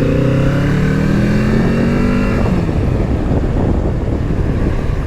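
Kawasaki Z650 parallel-twin engine accelerating, its pitch rising for about two and a half seconds. The engine note then falls away into wind and road noise.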